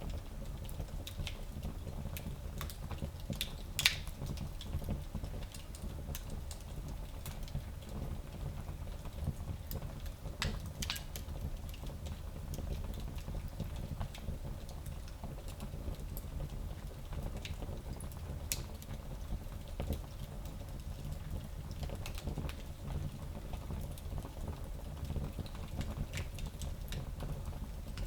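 Fire burning in a fireplace: a steady low rumble of flames with scattered sharp crackles and pops, the loudest pop about four seconds in.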